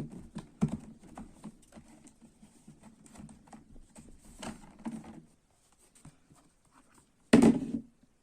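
Plastic bottom cover of a Lenovo G580 laptop clicking and tapping as it is unclipped and lifted off the base, then one louder knock about seven seconds in.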